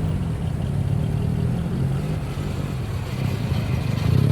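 Car engine running at low revs, its pitch rising and falling gently as the throttle is eased on and off.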